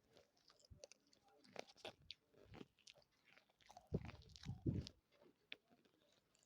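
A person biting and chewing dry clay (mitti), with scattered crisp crunches and a louder bout of chewing about four seconds in.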